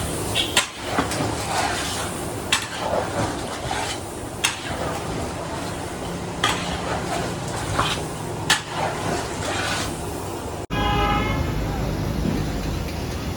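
Busy background chatter with sharp clinks every second or two. After a sudden cut near the end comes a short honk-like tone over a low rumble.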